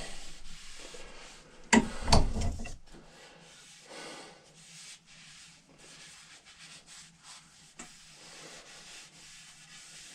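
Cloth rubbing boiled linseed oil into a wooden axe handle, in soft uneven strokes. A loud knock about two seconds in.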